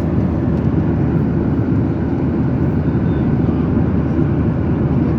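Airliner cabin noise in cruise flight: a loud, steady, deep rush of airflow and jet engines, unchanging throughout.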